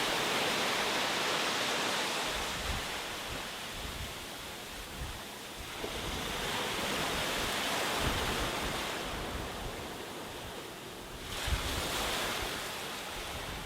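Sea waves breaking and washing onto a beach, the surf swelling and easing in several surges. Wind buffets the microphone with low rumbles.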